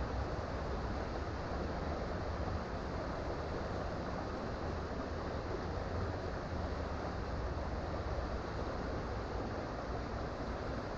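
Creek water running steadily, an even rushing noise with no breaks.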